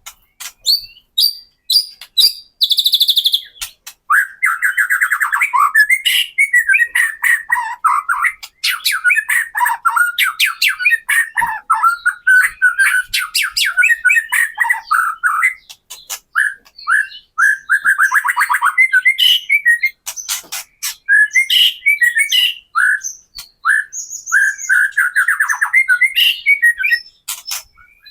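White-rumped shama (murai batu) singing a rapid, rattling chatter ('kretekan') of fast repeated notes mixed with sharp clicks and higher whistles. There are brief pauses about 4 s in, a little past the middle, and around 20 s in.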